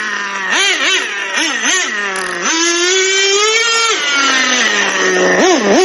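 Traxxas Jato RC car's modified TRX 2.5 nitro engine, fitted with an OS carb and a carbon fibre exhaust pipe, revving in quick throttle blips. It holds high revs for about a second and a half near the middle, settles lower, then blips again near the end.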